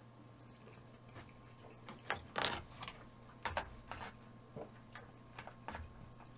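Eating sounds: a scattering of short clicks and wet smacks of chewing, starting about two seconds in, over a faint steady hum.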